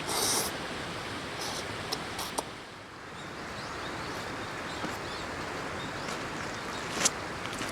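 Steady rushing of a river flowing, with a few brief handling noises in the first couple of seconds and one sharp click near the end.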